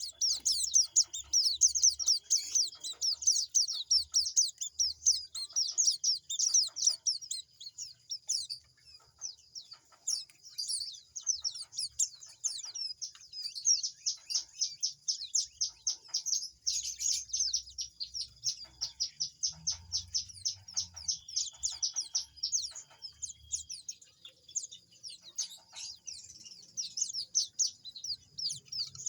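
Fledgling songbirds, including young white-eyes, chirping in rapid, continuous high-pitched runs: the begging calls of chicks learning to take soft food.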